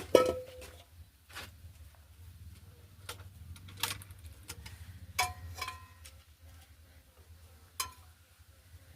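Kitchenware being handled: scattered clinks and knocks of dishes and utensils, several ringing briefly, the loudest just after the start, over a low steady hum.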